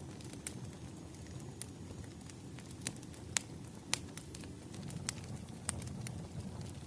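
Wood fire crackling: irregular sharp pops and snaps over a low steady rumble of burning logs.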